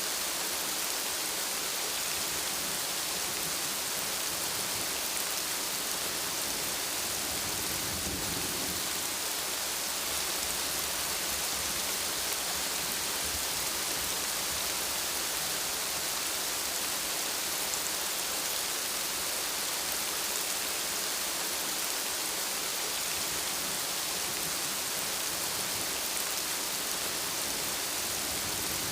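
Steady heavy rainfall, an even hiss of rain on surfaces. About eight seconds in there is a soft low rumble of distant thunder that does not raise the overall level.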